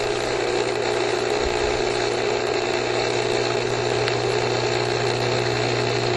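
Backyard swimming pool pump running, a steady motor hum with water moving through it as it circulates the pool water.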